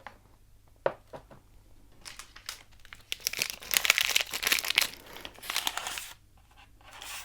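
Crinkling of foil or plastic snack packaging being handled, a single click about a second in, then a dense crackling run that peaks in the middle and fades.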